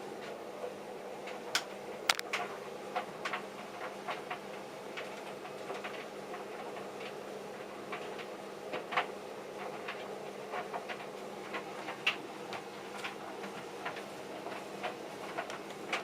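Tumble dryers running: a steady motor and drum hum, with irregular clicks and taps as the buttons and zips of the tumbling jeans knock against the drums.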